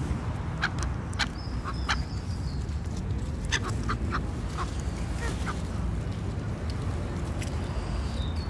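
Birds that are being fed call in a run of short, separate notes, most of them in the first half, over a steady low rumble.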